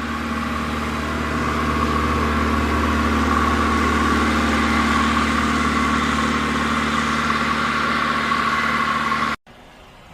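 An engine running steadily with a constant hum. It cuts off abruptly about nine seconds in, leaving a much quieter background.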